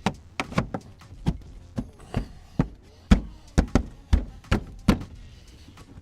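About fourteen sharp plastic knocks and snaps in an uneven series, as plastic push clips are pressed home to fasten a car's plastic front cover and wheel liner.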